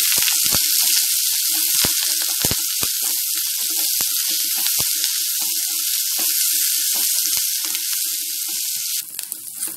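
Sliced onion, curry leaves and garlic sizzling in hot oil in an aluminium kadai, stirred with a wooden spatula that knocks and scrapes against the pan. The sizzle drops off sharply near the end.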